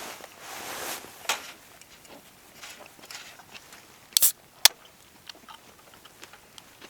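Handling noises: a brief rustle, then a few sharp clicks and knocks, the loudest a close pair about four seconds in, followed by faint scattered ticks.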